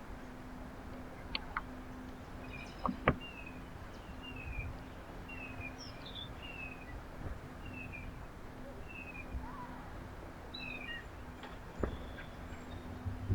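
Small birds chirping: a run of short, falling chirps about once a second, with a few sharp clicks (the loudest about three seconds in) and a steady low hum beneath.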